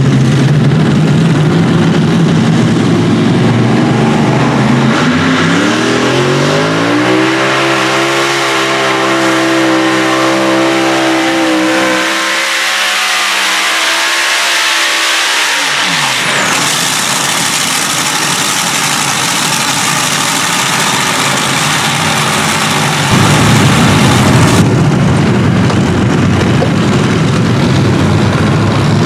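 Modified pulling tractor engine running loud. It revs up about five seconds in, holds at high revs for roughly eight seconds, then winds down. A louder, deeper engine note comes in near the end.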